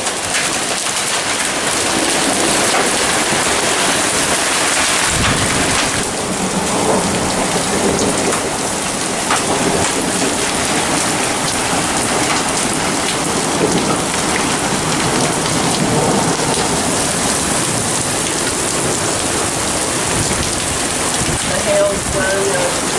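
Heavy storm rain beating down steadily, with a brief low rumble about five seconds in.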